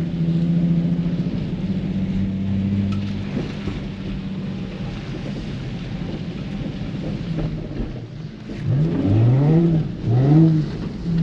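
Nissan 350Z's V6 engine holding a steady note, dropping back, then revved up twice near the end, rising in pitch each time as it is throttled through a slide. A steady hiss of wet tyres and rain runs underneath.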